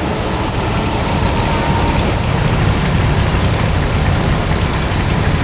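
Faun D4K Unicat truck's 14.1-litre V10 engine running with a steady, deep rumble.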